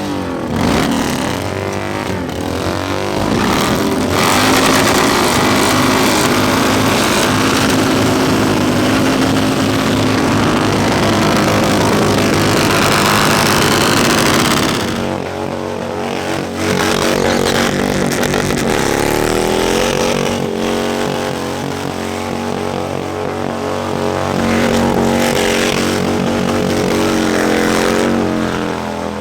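Motorcycle engine running at road speed under heavy wind rush. About halfway through the wind eases and the engine note rises and falls as the bike changes speed.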